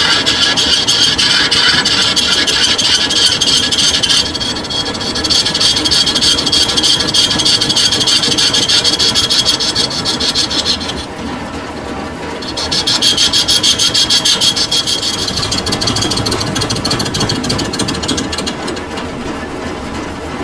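Metal lathe cutting a sugarcane juicer roller bush, a harsh, rapidly ticking rasp of the tool scraping the spinning workpiece. The cutting stops briefly about four seconds in and again around eleven seconds. After about fifteen seconds it gives way to a quieter running of the machine.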